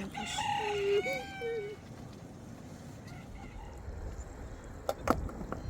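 A rooster crowing in the first couple of seconds, followed by two sharp knocks near the end.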